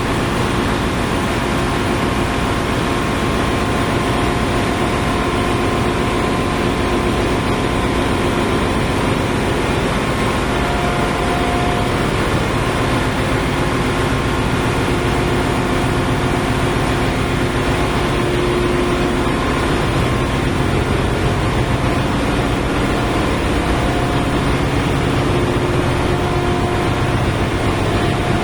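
Ship's engine-room machinery running: a loud, steady drone with several steady hums laid over it.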